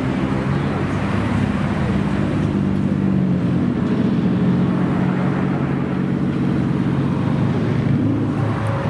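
A modified car's engine and exhaust running at a steady speed, its low note holding level.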